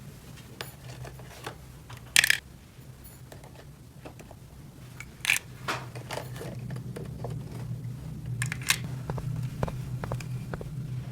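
Small plastic toy pieces being handled: scattered light clicks and taps, with a few sharper clacks about two, five and eight and a half seconds in, over a low steady hum.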